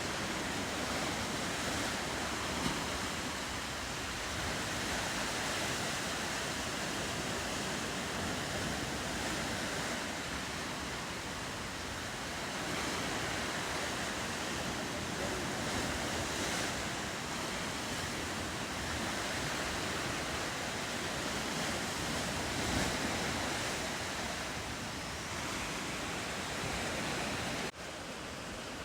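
Ocean surf: a steady wash of waves, dropping abruptly in level near the end.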